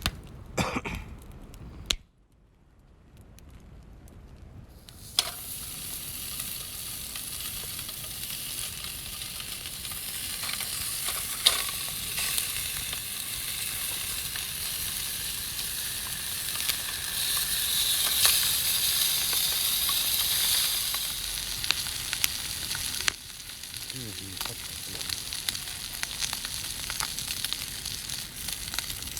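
Ham sizzling as it cooks over a wood fire: a steady hiss with scattered sharp pops. It starts about five seconds in, grows louder, then drops suddenly to a quieter sizzle near the end.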